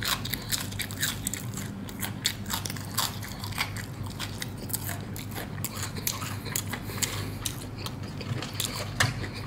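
Someone bites into a crispy battered fried chicken drumstick and chews it close to the microphone, the coating crunching in many quick, irregular, sharp crunches.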